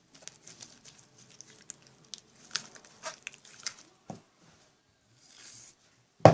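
Hands kneading slime mixed with borax activator and shaving cream, making irregular small sticky clicks and pops, with a soft hiss near the end.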